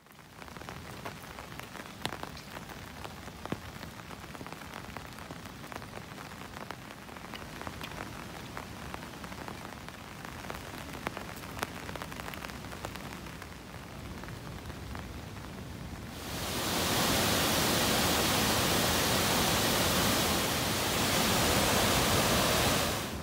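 Rain falling, with many separate drops ticking close by. About sixteen seconds in, the sound switches abruptly to a louder, denser, steady rush of water that stops shortly before the end.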